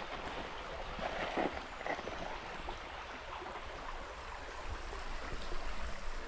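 River water running over rocks: a steady rushing.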